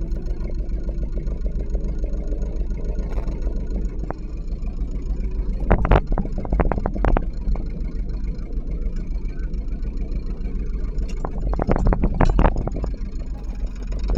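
Sailboat's inboard engine running steadily at slow speed while the boat is eased into its slip, a low drone. Clusters of short knocks come about six seconds in and again near twelve seconds.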